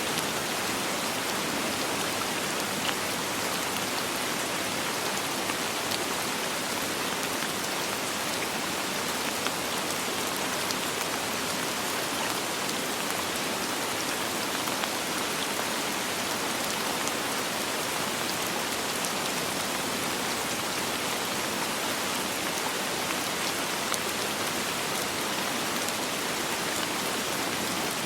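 Steady rain falling on a surface, a constant hiss with faint pattering drops and no thunder.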